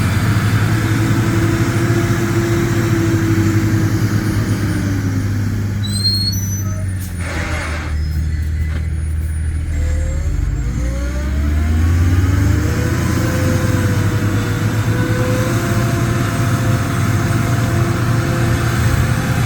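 Dump truck's diesel engine running, its revs falling a few seconds in, then a short hiss of air about seven seconds in, and the engine revving back up and holding a steady higher pitch.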